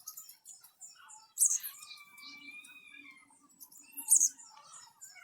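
Birds chirping and calling: many short high chirps, two sharp loud squeaks about a second and a half in and about four seconds in, and a held whistled note between them.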